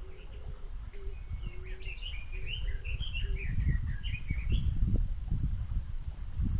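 A songbird sings a quick phrase of varied chirping notes for about three seconds, while low, even hooting notes repeat in the background during the first half. A low rumbling noise grows louder after the song.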